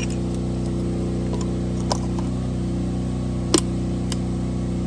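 An engine running steadily at idle, a constant low hum, with a few light clicks and one sharper click about three and a half seconds in.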